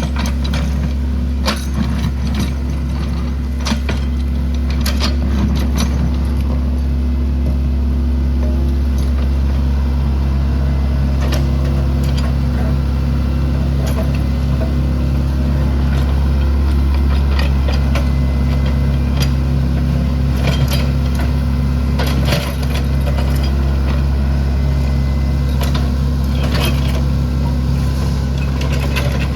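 Excavator's diesel engine running steadily, with scattered knocks and clanks over it.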